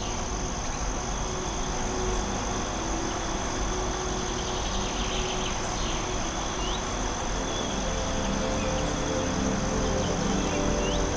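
Forest ambience: a steady high buzz of insects such as crickets over an even background hiss, with a few short rising bird chirps scattered through it. Soft held tones of an ambient music pad come up in the second half.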